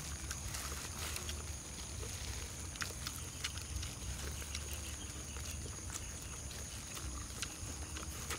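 Close-up eating sounds: chewing and lip-smacking on corn on the cob, with many small irregular clicks.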